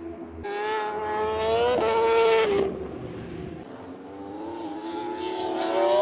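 MotoAmerica Superbike race motorcycles passing at speed on warm-up laps: two loud passes, each engine's pitch climbing as it accelerates and then dropping away.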